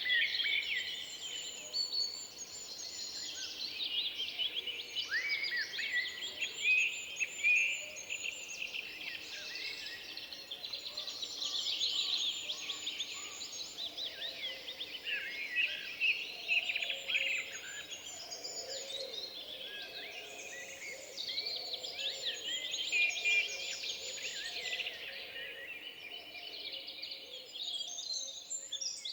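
Several songbirds singing at once in a forest: a dense, overlapping mix of high chirps, quick trills and whistles.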